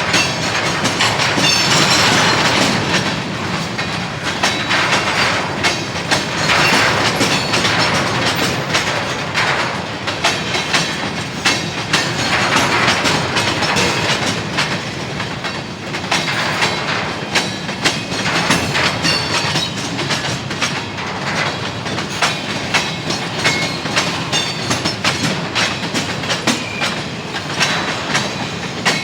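CSX freight train cars rolling past, steel wheels clicking over the rail joints in a steady clickety-clack over a continuous rolling rumble.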